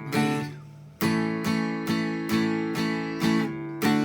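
Acoustic guitar strummed in steady chords, ending the song on a final chord left to ring out.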